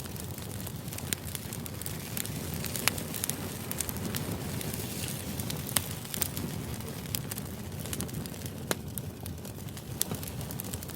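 White-noise ambience: a steady low rush dotted with irregular sharp crackles and clicks.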